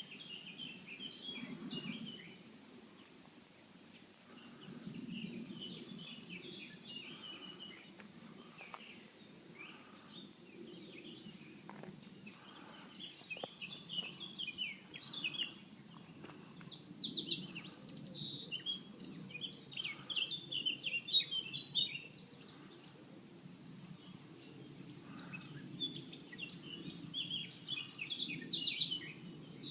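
Several songbirds singing and calling, with one loud song of fast, repeated high notes from about seventeen to twenty-two seconds in and again near the end. A low steady hum lies underneath.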